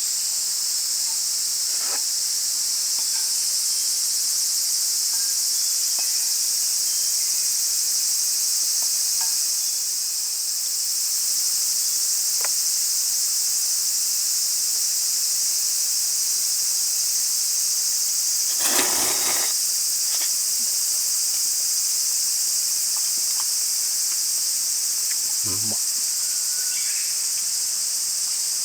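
Dense, steady chorus of summer insects, a high shrill drone. About two-thirds of the way in there is a brief rustling clatter, and a short low knock follows a few seconds later.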